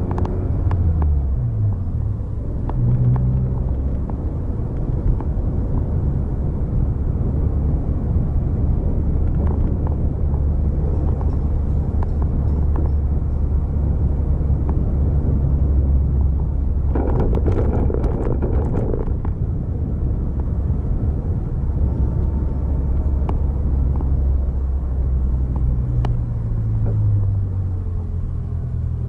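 A vehicle on the move: a steady low engine and road rumble, with the engine pitch sliding up and down near the start and again near the end. There is a louder hissing rush for about two seconds, a little past the middle.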